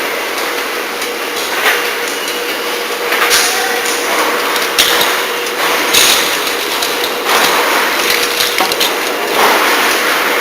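Water-heater tank production-line machinery running with a steady hum, with a knock or hiss that recurs about every one to two seconds.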